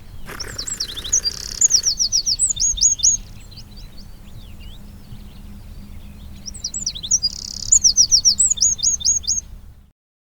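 Eurasian wren singing two loud, fast songs, each a run of high trills with a rattle in the middle and a few seconds of fainter notes between them.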